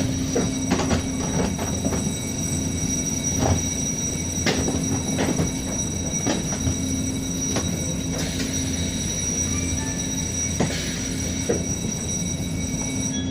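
Inside a passenger train carriage moving slowly along a station platform: the train's steady low hum, with a dozen irregular clanks and knocks from the carriage and wheels.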